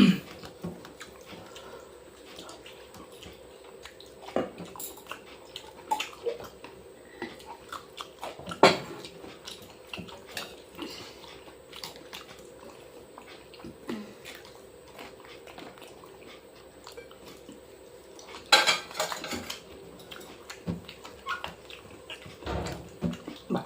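Eating sounds: chewing, with fingers mixing soaked rice on a plate, as scattered soft clicks and wet squishes, and a louder cluster about eighteen seconds in.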